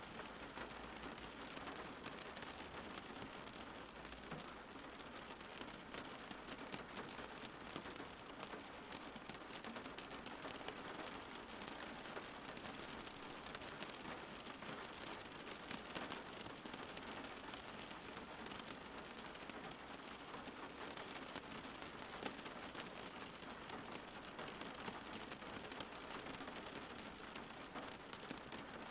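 Steady rain falling on a surface, a continuous patter of many small drops with no change in strength.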